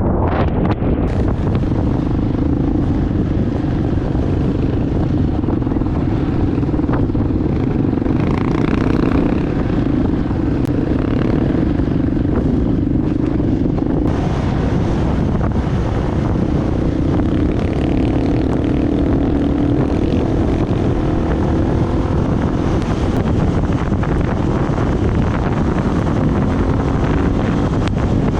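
An engine running steadily under way, its pitch wavering gently up and down, with wind rushing over the microphone.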